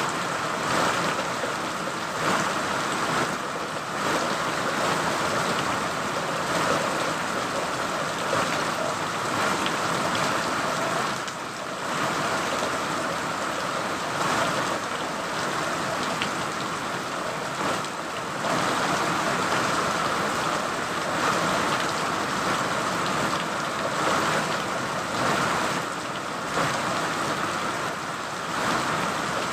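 Steady rain falling, an even hiss that swells and eases a little from moment to moment.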